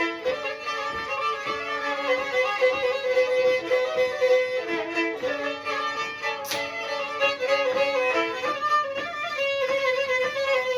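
Black Sea kemençe playing an instrumental passage between sung verses: a quick run of short bowed notes over a steady sustained tone, with one sharp click about six and a half seconds in.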